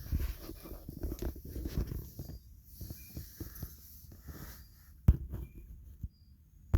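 Close rustling and bumping on the microphone, with two sharp knocks, one about five seconds in and one at the end, and a few faint short high chirps.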